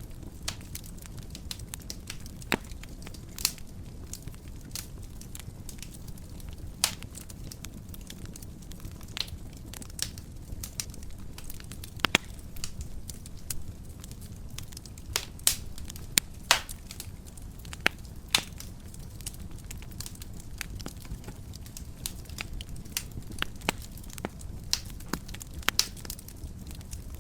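Wood fire crackling in a fireplace: a steady low rumble of the flames with irregular sharp pops and snaps, a cluster of louder pops about midway.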